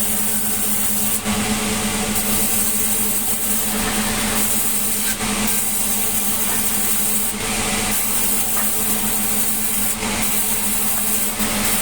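Sawmill machinery running steadily: a constant motor hum under saw noise whose high hiss rises and falls every second or two.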